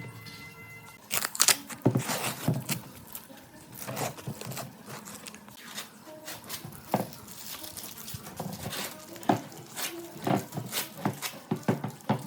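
Irregular knocks, clicks and rustling, like objects being handled and set down one after another, with no steady machine sound.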